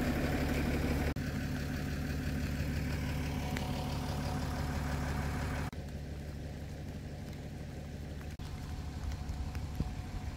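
Vehicle engine running steadily at low revs, with the sound changing abruptly twice.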